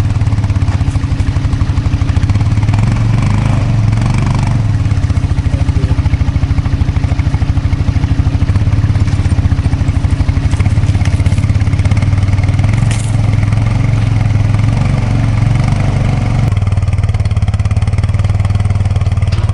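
Kubota B2650 compact tractor's diesel engine running steadily, with a fast even pulse. About three seconds before the end the sound turns duller, its higher part dropping away while the low engine hum goes on.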